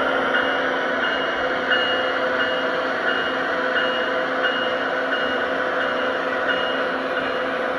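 Lionel Legacy Genset locomotive's onboard sound system playing a steady diesel engine sound, with a short high beep repeating a little under twice a second.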